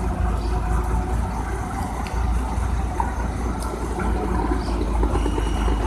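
An engine running with a steady low rumble during a boat retrieval, mixed with water noise.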